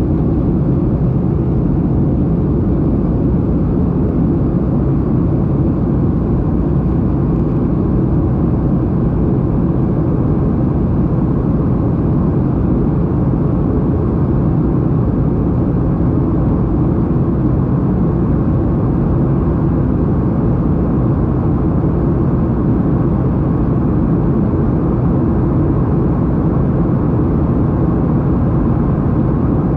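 Steady low roar of an airliner's engines heard from inside the passenger cabin, even and unchanging throughout.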